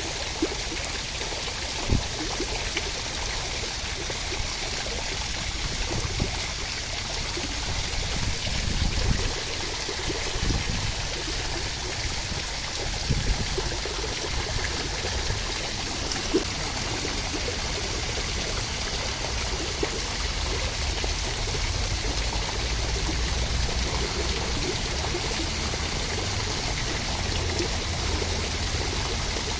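Steady rushing of falling water, as in a rain sound recording, with a few brief sharp taps and a low rumble that swells now and then.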